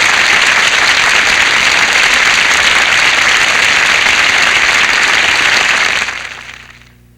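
Studio audience applauding and cheering after a song, loud and steady, then fading out over about the last second.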